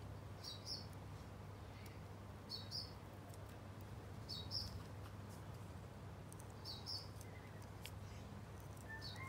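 A small bird chirping a short double note about every two seconds over a low steady hum, with a longer thin whistle starting near the end. Faint clicks of metal tweezers on the plastic parts sound now and then.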